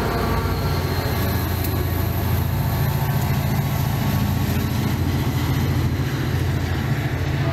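Commuter train's diesel locomotive running past close by, a steady loud low engine drone over rail and wheel noise.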